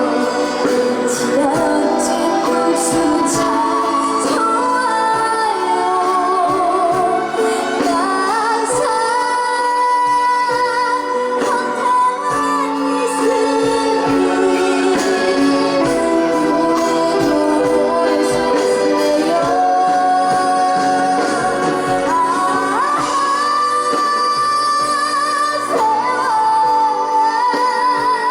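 A girl singing a trot song live over full instrumental accompaniment, a continuous melody with sliding ornaments on the held notes.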